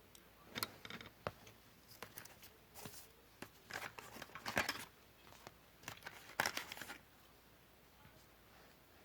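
Paper being handled and worked for a paper-craft model: irregular rustling, crinkling and sharp clicks, stopping about seven seconds in.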